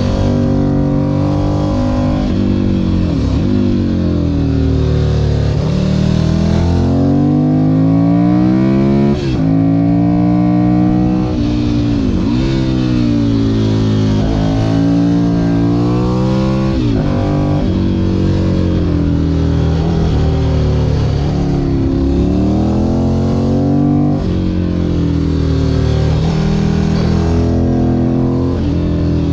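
Ducati Monster 1100 EVO's air-cooled L-twin engine under way, its pitch rising and falling over and over as the rider accelerates and comes off the throttle through a run of curves, with several quick sharp dips in pitch.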